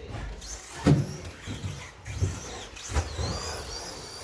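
Electric RC stadium trucks with 13.5T sensored brushless motors running around the track, their motors whining up and down in pitch as they speed up and slow down. Sharp knocks cut in, the loudest about a second in and another near three seconds.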